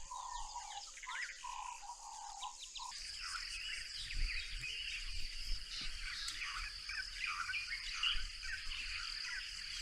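Bush ambience of birds calling and chirping. For the first three seconds one bird repeats a lower note over and over; from about three seconds in, a steady high insect trill runs under the birdsong.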